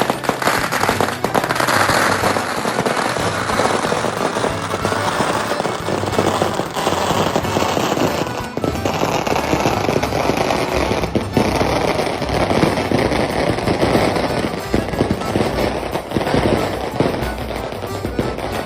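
A long, dense run of firecrackers crackling and popping without a break, like a string of bombinhas going off, with music playing underneath.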